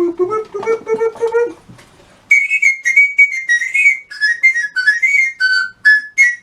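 A brief run of lower pitched notes, then a whistled tune from about two seconds in: short high notes stepping up and down, moving lower and becoming more clipped near the end.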